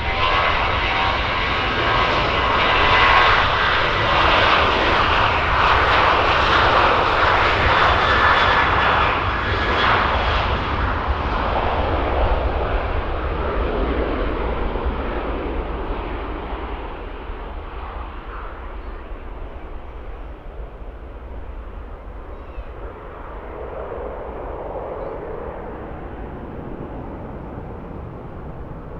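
Jet engines of a Ryanair Boeing 737-800 (CFM56) departing: loud at first, with a high whining fan tone over the jet noise, then fading steadily through the second half as the aircraft climbs away.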